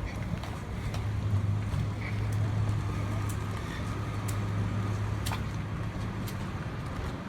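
City street traffic: a motor vehicle's engine running steadily close by, with light footsteps ticking about once a second.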